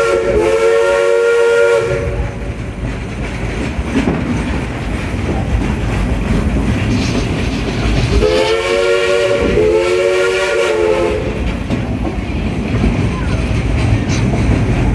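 Steam locomotive's chime whistle blowing a chord: one blast ending about two seconds in, then two more blasts close together about eight seconds in, over the steady rumble and clatter of the train rolling on the track.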